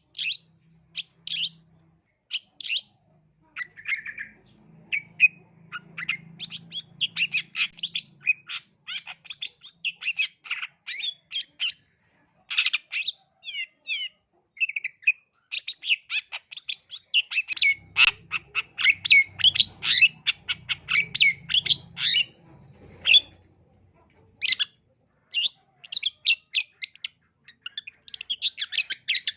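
Long-tailed shrike (cendet) singing vigorously: rapid runs of sharp, chattering and squeaky notes, broken by short pauses.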